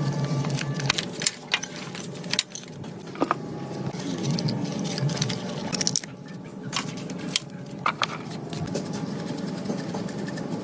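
Irregular clicks and taps, as of parts and tools being handled, over a faint steady hum; a lower hum stops about a second in.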